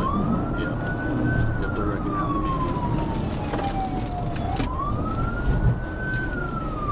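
Police car siren on the wail setting: the pitch rises quickly, then falls slowly over about three seconds, with two full sweeps. A steady low rumble runs underneath.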